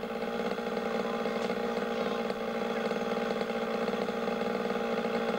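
Small trial motorcycle engine idling steadily, a constant pitched drone with a fast, even pulse.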